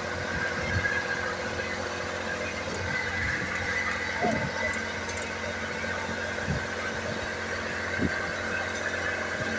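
A steady machine hum with a few scattered knocks, and a short rising squeak about four seconds in.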